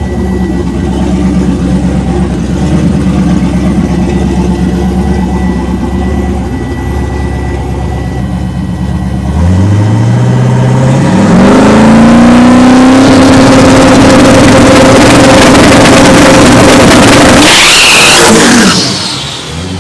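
A drag-racing car's engine rumbles at idle. About halfway through it launches at full throttle, the pitch climbing in two steps to a loud, steady high-rev note. Near the end the pitch drops and the sound fades as the car passes by.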